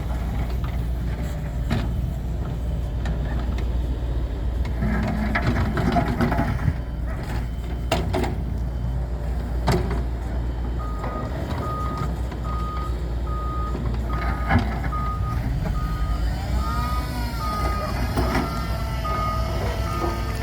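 15-ton dump truck's diesel engine running with a steady low rumble and a few sharp knocks. About halfway through, its reversing alarm starts up: a steady high beep repeating a little faster than once a second as the truck backs up.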